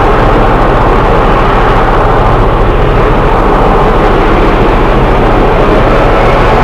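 Train running with a loud, steady rumble and low hum that keeps on without a break.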